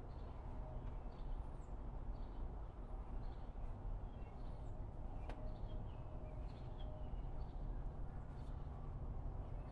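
Birds chirping faintly and repeatedly over a steady low background noise, with one light click about five seconds in.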